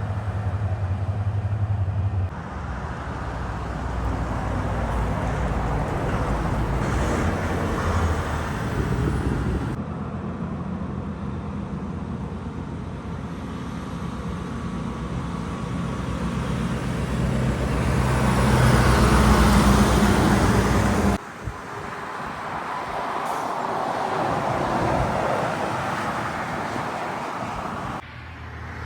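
Heavy trucks' diesel engines running as they drive by on a road, heard in several short segments that cut abruptly. The loudest pass builds up about two-thirds of the way through and cuts off suddenly.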